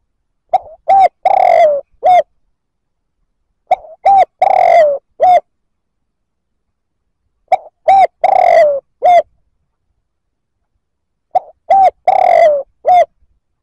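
Spotted dove cooing its song four times, about every four seconds. Each phrase has four notes: two short coos, a long coo that falls in pitch, and a short closing coo.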